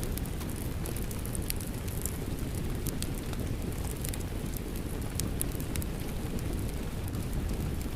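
Crackling wood fire mixed with steady rain: a constant low rumbling rain bed with frequent sharp, irregular crackles and pops from the burning logs.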